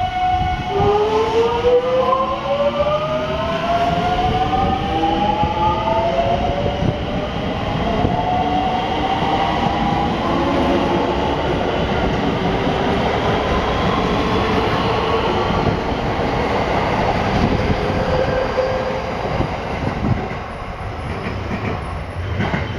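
223 series 0 EMU's GTO-VVVF inverter and traction motors whining as the train accelerates: a stack of tones climbs in pitch through the first six seconds, then further tones rise more slowly, over the rumble of wheels on rail. The whine eases off and the sound drops a little around twenty seconds in.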